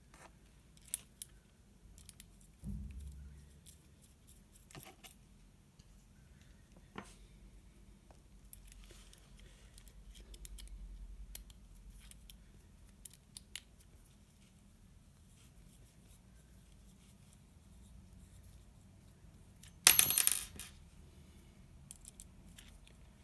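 Small metal parts being handled: scattered quiet clicks and taps, then a loud metallic clatter with a short ring about twenty seconds in, like a metal part dropped or tossed onto a hard surface.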